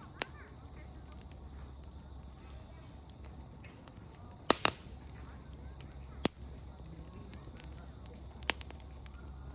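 Open wood campfire crackling: a handful of sharp, separate pops as the firewood bursts, the loudest a quick double pop about halfway through. Faint voices of children carry in from a distance underneath.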